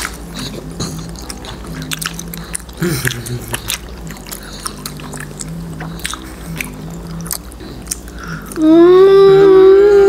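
Close mouth sounds of people chewing sausages with nacho cheese: wet smacks and small clicks. About eight and a half seconds in, a loud held musical note starts, wavering and then falling in pitch.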